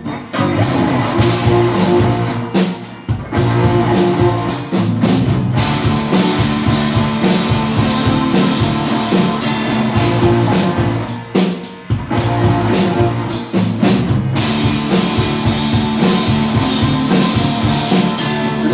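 Live rock band playing an instrumental passage between sung verses, with drum kit, bass and guitar. The band drops out briefly twice, at about three seconds and at about twelve seconds.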